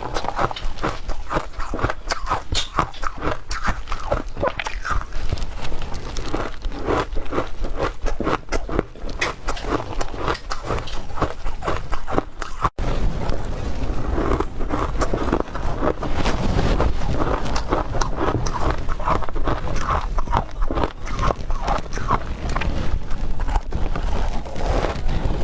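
Ice being bitten and chewed close to the microphone: a dense, continuous run of crisp crunches and crackles, broken by a very brief gap about halfway.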